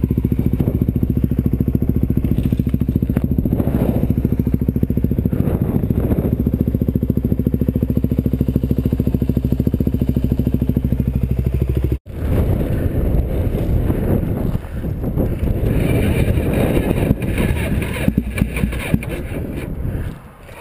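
Motorcycle engine running at a steady speed. About twelve seconds in, the sound cuts abruptly to a rougher, noisier stretch of riding, uneven in loudness.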